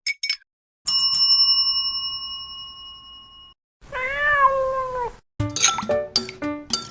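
A bright bell ding rings out and fades over about three seconds, followed by a single drawn-out cat meow. Light music with short, rhythmic notes starts near the end.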